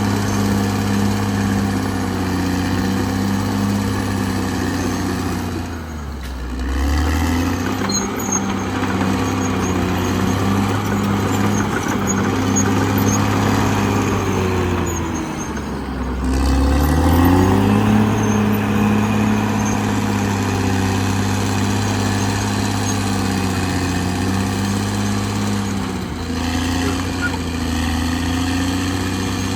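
Caterpillar D6R XL bulldozer's diesel engine running steadily while working. Its revs drop and pick back up twice, about six and fifteen seconds in.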